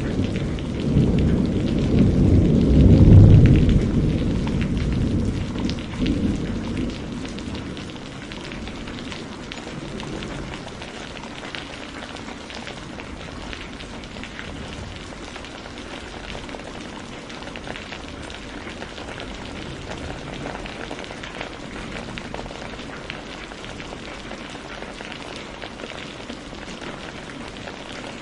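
Steady rain pattering on surfaces, a dense even hiss of drops. A low rumble of thunder swells to a peak about three seconds in and fades out by about seven seconds, leaving only the rain.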